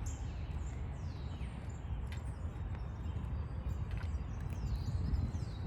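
Outdoor ambience: a steady low rumbling noise on the microphone, with several short, high bird calls that fall in pitch, a few of them close together near the start and again near the end, plus a couple of faint ticks.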